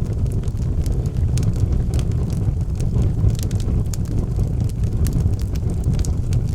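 Fire burning in a fireplace, with frequent sharp crackles and pops over a steady low rumble.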